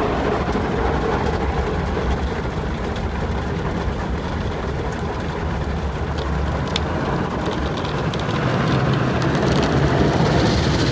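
Automatic car wash working over the car, heard from inside the cabin: a steady rush of water spray and machinery on the car body over a low rumble, growing a little louder near the end.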